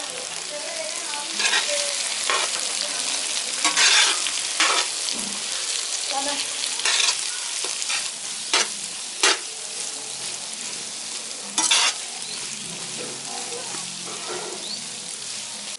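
Chopped capsicum and onion sizzling in hot oil in a large kadai while a long slotted metal spoon stirs them, scraping and knocking against the pan in several short sharp strokes through the first twelve seconds.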